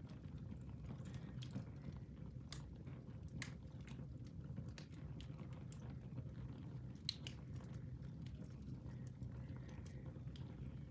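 Wood fire in a fireplace crackling: irregular sharp snaps and pops over a steady low rumble of the flames, with one louder pop about seven seconds in.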